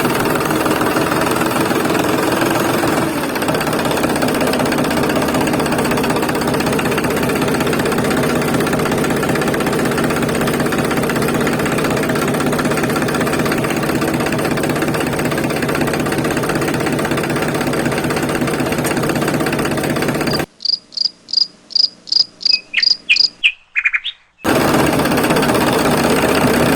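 Small electric motor buzzing steadily. Near the end it breaks off for a quick run of about a dozen short, high chirps, then starts again.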